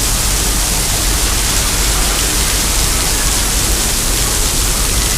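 Heavy rain pouring down steadily: a loud, even hiss with no let-up.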